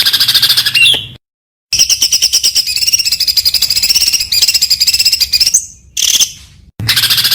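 Songbird giving rapid, high-pitched trills of fast-repeated notes, the "tembakan" song of contest birds. The song cuts off abruptly to silence about a second in, resumes, breaks off again before a short burst, and starts up once more near the end.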